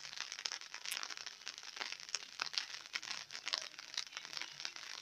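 Light rain falling: a dense, irregular spatter of small drop taps.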